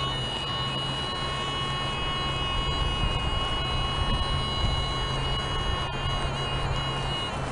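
Handheld metal-detecting pinpointer sounding a steady, unbroken high tone with overtones that wavers briefly near the end, over a low rumbling noise. The tone comes from a worn pinpointer that has seen better days.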